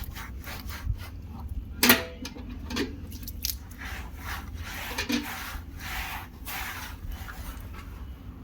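Hands scrubbing dog shampoo lather through a Saint Bernard puppy's wet coat in uneven strokes, with one sharp knock about two seconds in.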